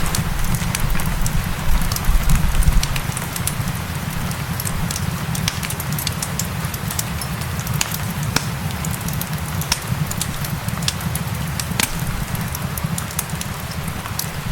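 Wood fire crackling, with scattered sharp pops, over a steady hiss of rain and a low rumble that swells about two seconds in.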